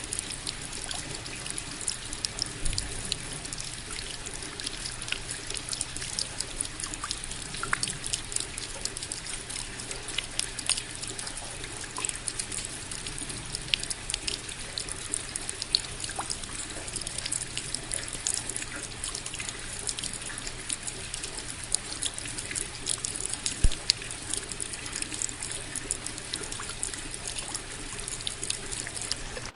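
Steady rain, with many separate drops heard as small ticks over an even wash of water noise; one louder drop lands about three-quarters of the way through.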